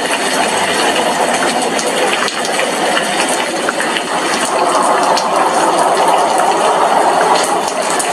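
Steady heavy rain, drops pattering against window glass with many small sharp ticks. No thunder.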